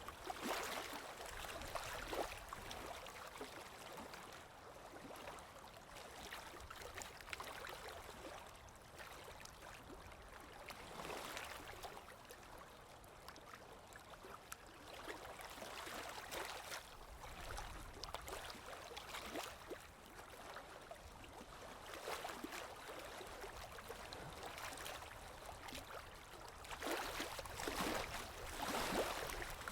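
Sea waves washing on a shore: surf that swells and eases every few seconds, with the biggest wave near the end.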